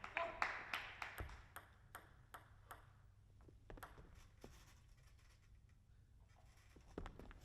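Table tennis ball clicking: a string of short, sharp ping-pong clicks about two to three a second, fading over the first few seconds, as crowd applause dies away.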